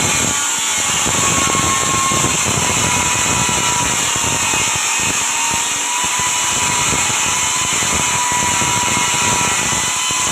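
Electric power tool running steadily, a loud whirring hiss with a faint high whine.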